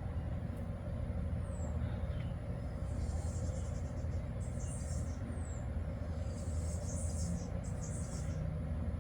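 Steady low rumble of distant road traffic, with faint high chirps and a few short falling whistles over it.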